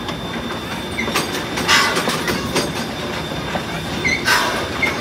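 Steam-hauled park train rolling along the track, a steady rumble of wheels on rails. Two loud short hissing rushes come about a second and a half in and again near the end, with a few brief squeaks.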